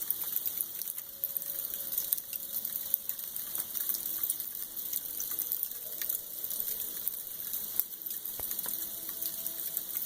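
Freezing rain falling steadily: a dense hiss of fine ticks, with an occasional sharper tick standing out.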